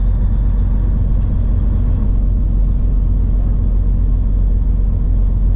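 Tractor-trailer engine and road noise heard from inside the cab while driving: a loud, steady low rumble.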